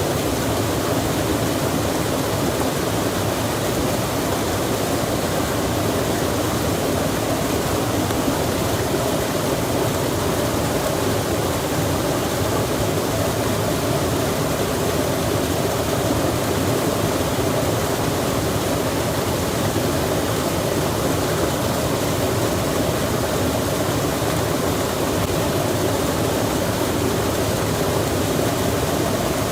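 Steady rushing of a stream with rain falling, an even, continuous wash of water noise with no distinct drops or breaks.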